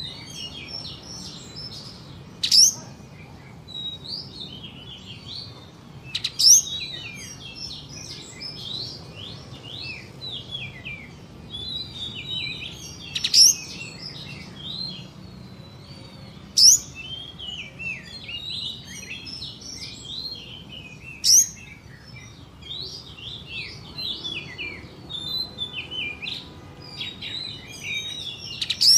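A kapas tembak songbird singing a continuous fast twittering chatter, broken about six times by a loud, sharp whip-like note, the 'tembakan' or 'shot' that the bird is kept for.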